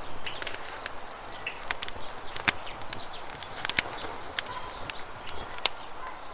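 Campfire crackling with irregular sharp pops, the loudest about two and a half seconds in, over a steady rush of running water, with faint bird chirps.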